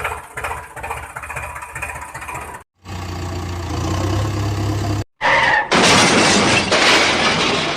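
A string of cartoon vehicle sound effects. First comes a rhythmic engine chug at about four beats a second. After a brief cut there is a steady low engine hum. After another cut, a loud rushing noise begins about six seconds in.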